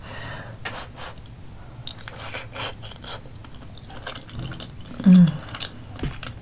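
Close-miked chewing of a soft roasted potato: wet, squishy mouth sounds with scattered small clicks. About five seconds in there is a short hum from the voice.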